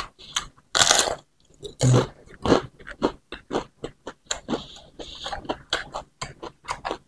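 Close-miked chewing and biting of food: a steady run of wet smacking and crunchy clicks, several a second, with a louder bite about a second in and again near two seconds.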